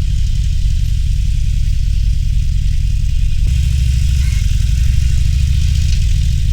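Harley-Davidson Roadster's air-cooled V-twin running with a deep, pulsing exhaust note. About halfway through, the engine sound grows a little fuller and a hiss rises above it.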